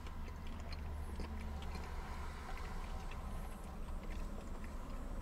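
A man chewing a mouthful of poutine with his mouth closed, faint small wet clicks of the chewing over a steady low hum inside a car.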